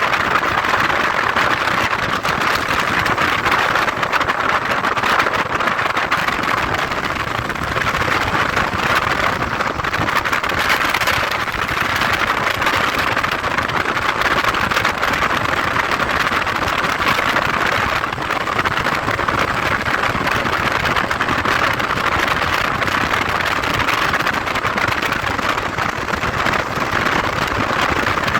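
Motorcycle riding along at a steady pace, its engine mixed with a steady rush of wind and road noise.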